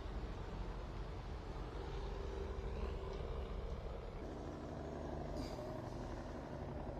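Road vehicle engines running in traffic: a steady low rumble with a brief hiss about five seconds in.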